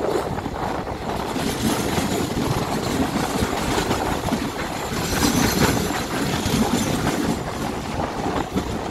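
Indian Railways ICF passenger coach running at speed: a steady rumble with wheels clattering over the rail joints, a little louder about five seconds in.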